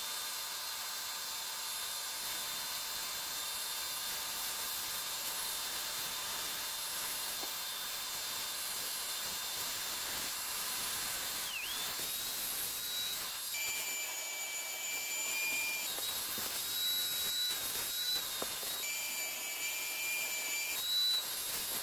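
Dongling fabric cleaning machine running its suction motor as it extracts water and dissolved dirt from a thick sponge cushion on a second cleaning pass: a steady rushing hiss. From about halfway a high whine joins in and cuts in and out several times.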